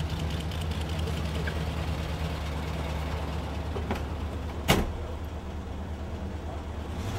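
Cadillac Coupe de Ville's V8 engine idling with a steady low hum. About two-thirds through, a car door shuts with a single sharp thud.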